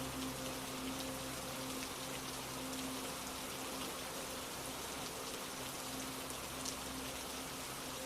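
Steady rain falling, with faint ticks of individual drops striking a surface.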